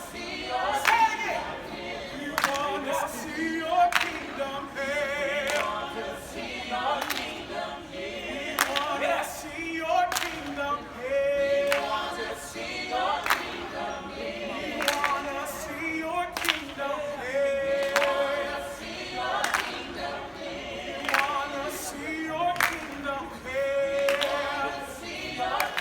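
A group of people singing a gospel song a cappella, with sharp handclaps keeping a steady beat.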